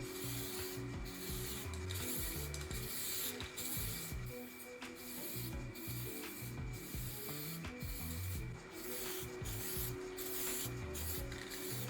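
Hand sanding with sandpaper: rhythmic back-and-forth rubbing strokes about one a second, with background music underneath.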